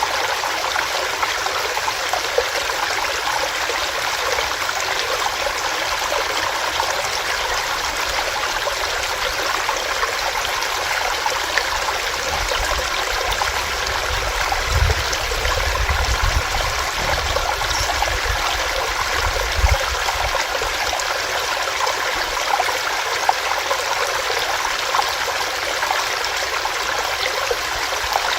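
Small stream running over rocks, a steady rushing and splashing of water. A low rumble comes and goes about halfway through.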